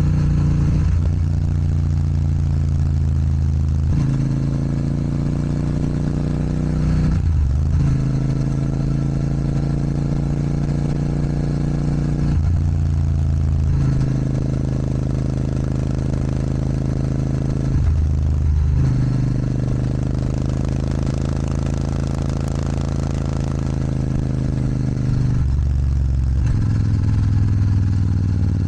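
Royal Enfield Super Meteor 650's 648 cc parallel-twin engine running under way through an aftermarket Rhino Racing sports exhaust. The engine note holds steady in stretches, with a brief dip or step in pitch every few seconds.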